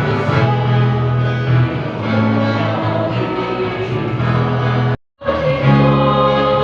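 Church choir singing in long held chords; the sound cuts out for a moment about five seconds in.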